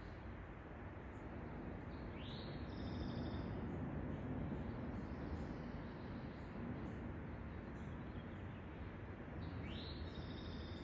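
A songbird sings two phrases, about two seconds in and again near the end, each a quick rising whistle followed by a short trill, over a steady outdoor background hiss.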